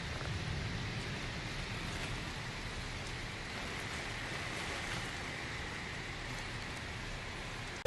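Steady rain falling, a continuous even hiss with a few faint drop ticks.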